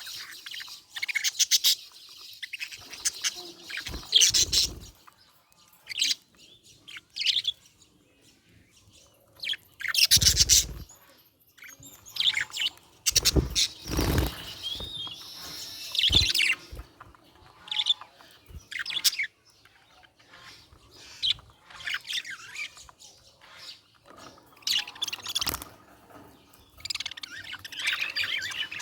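Budgerigars chirping and chattering in irregular bursts with short pauses between them, and a few louder, harsher bursts near the middle.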